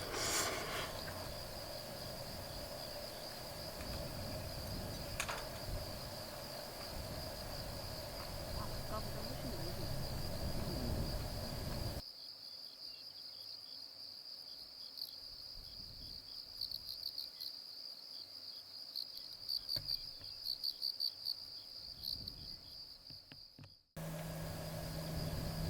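Crickets trilling, a steady high-pitched drone, with a low wind rumble under it for the first half. The rumble drops out abruptly about halfway, leaving the crickets alone, with a run of rapid pulsed chirps near the end.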